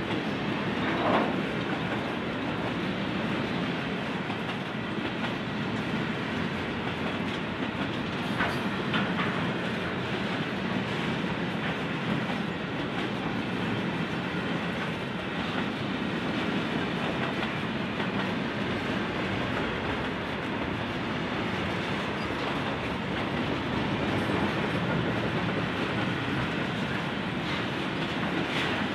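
Container wagons of a long freight train rolling past: a steady noise of steel wheels running on the rails, with a brief louder sound from the wheels about a second in.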